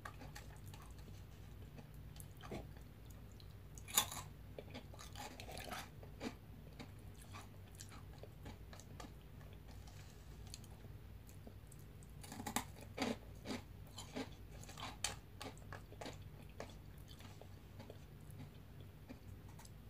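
Close-up chewing and crunching of crisp veggie straws, in scattered sharp crunches: a loud one about four seconds in and a busy run of them from about twelve to fifteen seconds. A low steady hum sits underneath.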